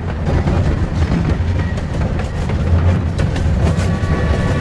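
Train running along the track, heard from an open passenger car: a steady low rumble with irregular clacks of the wheels on the rails.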